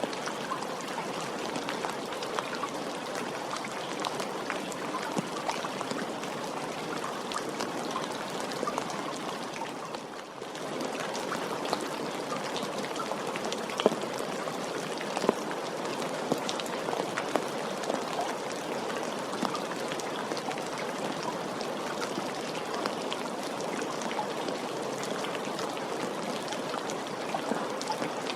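Steady rain falling, an even hiss speckled with many small drop ticks, briefly dipping in level about ten seconds in.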